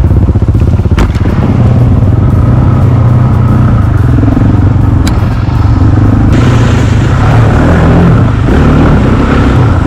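Husqvarna 701 Enduro's single-cylinder engine running loud and close while the bike is ridden through a rutted track, with sharp knocks about a second in and about five seconds in.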